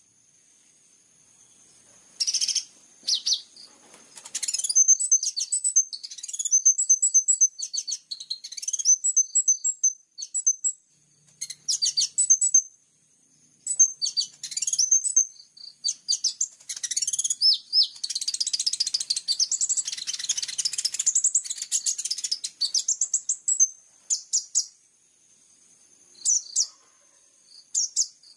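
A small songbird singing high, rapid chirps and trills in short bursts with brief pauses, the busiest stretch a little past the middle. It is recorded birdsong of the kind used as a training track for kept kolibri ninja sunbirds.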